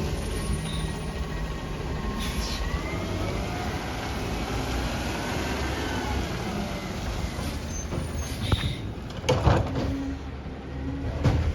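Diesel garbage truck running with a steady low rumble, a short air hiss about two seconds in, and a couple of loud knocks near the end.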